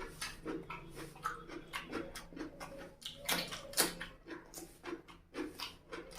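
Close-miked wet chewing and lip-smacking of someone eating rice and chicken curry, with irregular smacks several times a second.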